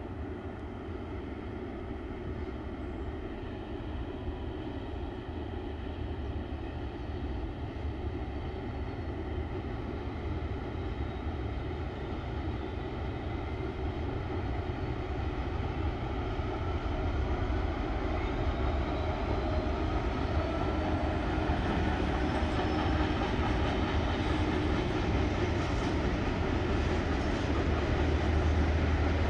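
Class 66 diesel-electric locomotive's EMD two-stroke V12 engine running as it hauls a freight train of hopper wagons, with the low rumble of the wagons rolling, growing steadily louder as the train draws nearer.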